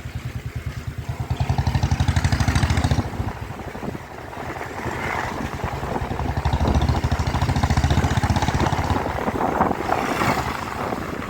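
Motorcycle engine running under way, its exhaust pulsing in an even beat. It opens up about a second in, eases off briefly near three seconds, and pulls again from about six seconds.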